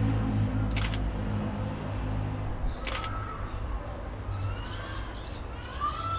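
Zeppelin NT airship's engines droning low overhead, fading away about two and a half seconds in. Two short sharp clicks come about two seconds apart, and birds call in the second half.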